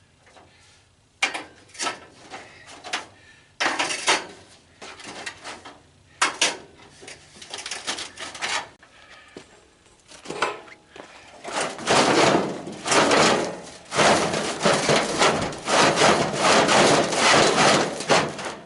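Parts of an old tanning bed scraping, rubbing and clattering as they are forced and pulled by hand: scattered scrapes and knocks for the first half, then a long stretch of steady, rough scraping about twelve seconds in.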